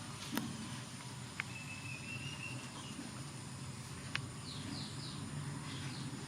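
Outdoor ambience with a steady low hum. A bird gives one held whistle, then a quick run of short falling chirps near the end. Three sharp clicks stand out, the loudest just after the start.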